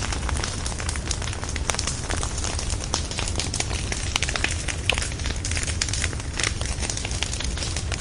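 Wood bonfire burning, with a steady low rumble of flames and frequent sharp crackles and pops from the logs.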